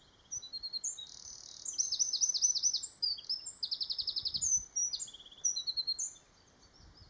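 Eurasian wren singing one long, fast song of high-pitched twittering notes and rapid trills, about six seconds long.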